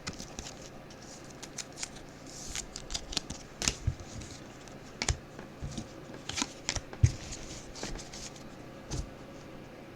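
Trading cards being handled: irregular light clicks and swishes of cards sliding and tapping against each other, with a sharper click about seven seconds in.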